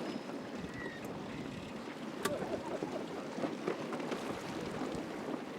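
Outdoor ambience after a race start: faint voices of onlookers over wind noise on the microphone, with one sharp click about two seconds in.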